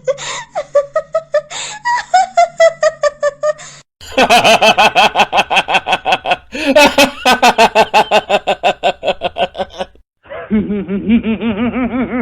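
Crazy, cackling human laughter in fast ha-ha-ha pulses, about five a second. It is three different laughing voices in turn, switching abruptly about 4 seconds in and again about 10 seconds in, after a brief gap.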